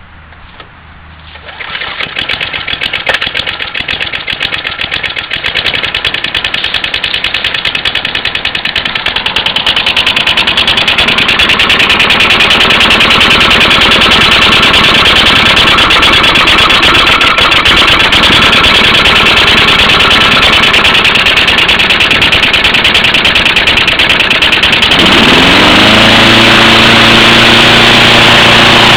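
Propane-fuelled lawn mower engine starting about two seconds in and running, growing louder over the first ten seconds. Near the end its pitch rises and settles at a steadier, higher speed.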